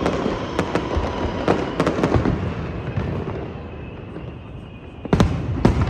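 Aerial fireworks bursting: a quick run of sharp bangs with crackle in the first two seconds, a rumble dying away, then two loud bangs near the end.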